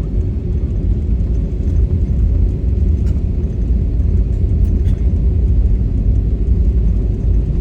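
Loud, steady low engine rumble, like a vehicle or aircraft running.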